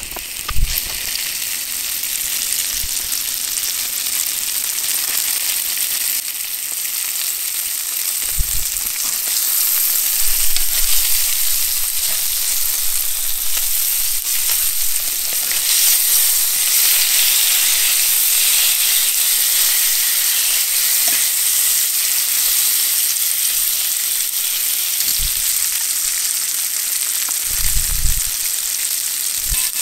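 Quail frying in butter in a cast-iron skillet: a steady sizzle that grows a little louder about ten seconds in, with a few dull knocks now and then.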